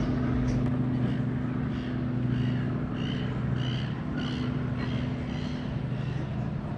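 A steady low motor hum, with a run of short high chirps or squeaks over it in the middle of the stretch.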